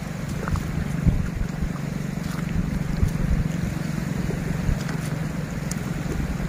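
Wind buffeting the microphone, a steady low rumble on the shore, with a few faint clicks scattered through it.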